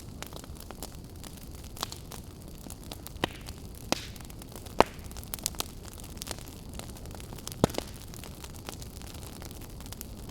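Campfire crackling: irregular sharp pops and snaps of burning wood over a steady low rumble of the flames, the loudest pops a little under five seconds in and near eight seconds.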